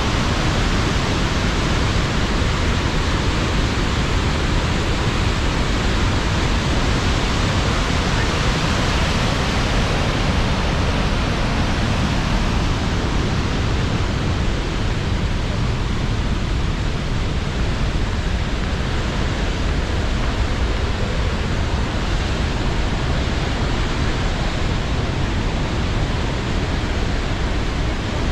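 Roar of a large waterfall, Tännforsen: water crashing down in a steady, loud, unbroken rush that is strongest in the low end.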